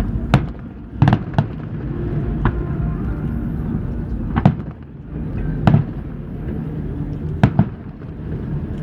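Fireworks shells bursting in the sky: about eight sharp bangs at uneven intervals, two of them close together near the end, over a steady low background rumble.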